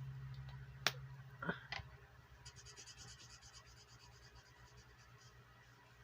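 Pen or marker scribbling on paper in rapid short strokes, colouring in a square on a savings chart, with a sharp click about a second in. A low steady hum runs underneath.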